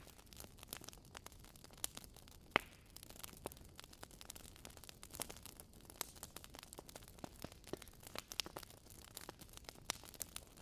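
Wood fire crackling in a fireplace: irregular small pops and snaps over a faint steady hiss, with one louder pop about two and a half seconds in.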